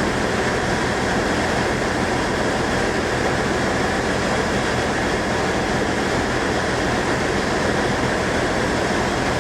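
Steady rumble and hiss of a train, with a constant low hum underneath that does not change.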